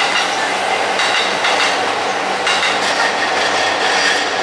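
JR East electric commuter train running at the platform: a steady, loud rumble of wheels on rails with some clatter.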